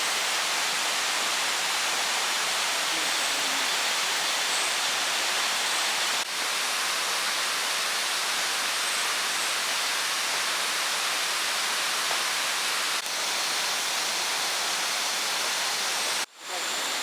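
Steady rushing of a waterfall, an even hiss-like roar of falling water that drops out for a moment near the end.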